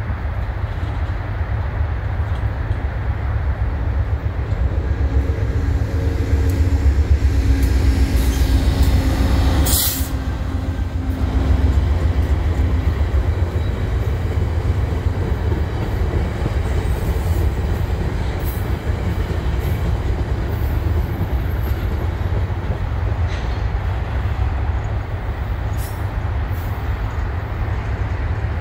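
CN intermodal double-stack container train rolling past, a steady loud rumble of wheels and cars on the rails. A passenger train passes on the nearer track through the middle of it, and there is a brief sharp high hiss about ten seconds in.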